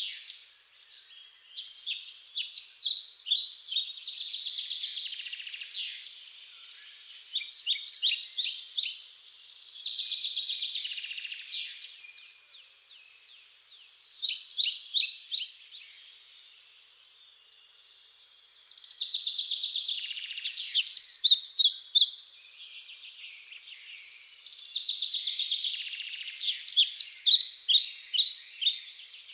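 Songbirds singing: phrases of rapid, high chirps and trills, a new phrase every few seconds with short lulls between.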